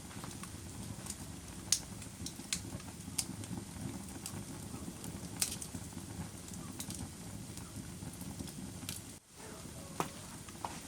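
Wood fire burning in a fireplace: a steady low rumble of flames with irregular sharp crackles and pops from the burning logs. The sound drops out for a moment about nine seconds in.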